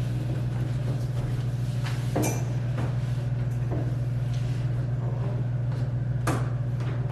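A few separate knocks and clunks of a door or cupboard being handled, over a steady low hum; the sharpest knock comes near the end.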